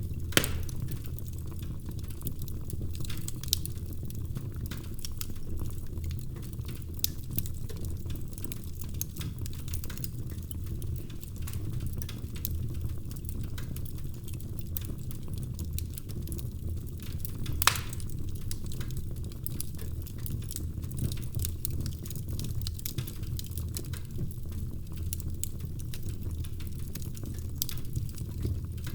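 Wood fire burning in a fireplace: a steady low rumble of flames with frequent small crackles and a few sharper pops, the loudest about half a second in and near the middle.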